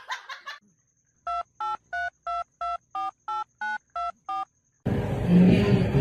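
Touch-tone phone keypad dialing a number: about ten short two-tone beeps, about three a second. A loud, noisy sound starts near the end.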